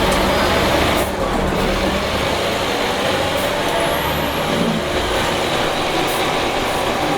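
Scania K270IB bus's 5-cylinder 8.9-litre DC9 turbo diesel engine running steadily.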